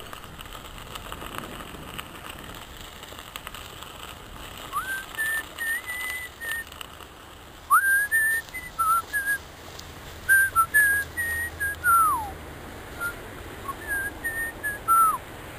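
A person whistling a tune in short phrases, starting about five seconds in, with notes sliding up into each phrase and falling away at the end of some.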